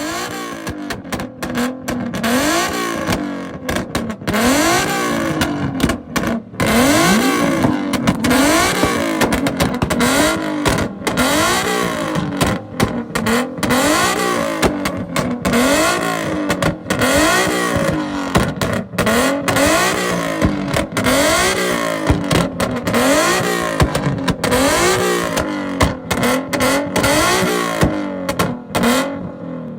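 A car engine revving hard again and again, its pitch climbing and dropping about once a second, with many sharp cracks through it.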